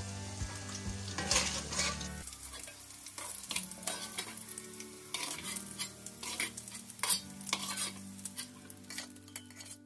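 Bitter gourd pieces sizzling in hot oil in a metal pot, with a metal ladle repeatedly scraping and knocking against the pot as the fried pieces are scooped out.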